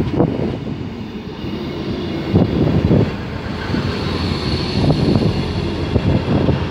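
South Western Railway electric multiple unit running past close by along the platform: a low rumble with knocks from the wheels over the rail joints.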